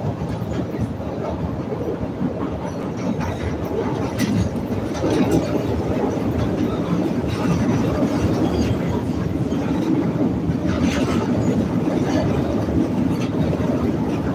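CTA Red Line rapid-transit train running on elevated track, heard from inside the car: a steady rumble with a few sharp clacks as the wheels pass over rail joints.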